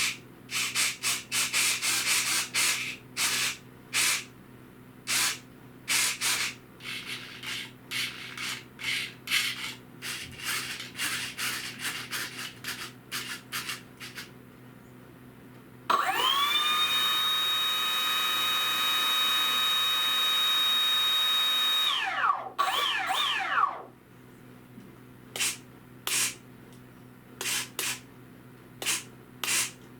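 A small electric motor spins up abruptly, runs at a steady high whine for about six seconds, then winds down with falling pitch. Before it come many short bursts of rubbing and rustling from parts being handled, and a few more follow near the end.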